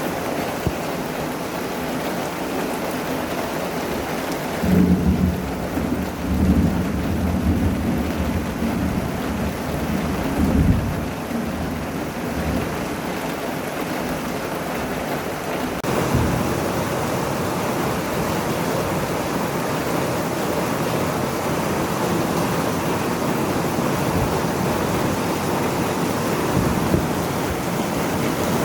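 Heavy rain pouring down steadily, with a low rumble of thunder rolling for several seconds about five seconds in. The downpour sounds fuller about halfway through.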